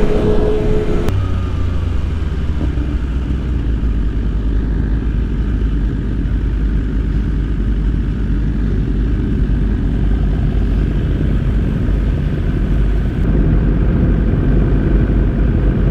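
Motorcycle engine noise, a loud and steady low rumble; a steady higher tone stops abruptly about a second in.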